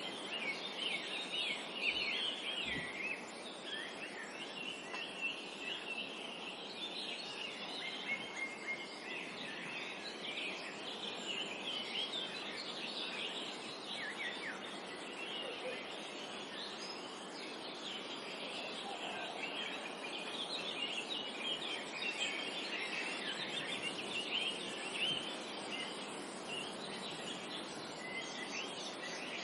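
A chorus of small songbirds chirping and trilling continuously over a steady background hiss.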